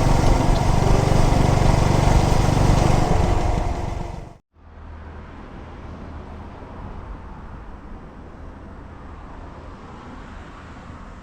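Yamaha SR400's air-cooled single-cylinder engine running loudly, cut off abruptly about four seconds in. After the cut comes a much quieter, steady low engine hum.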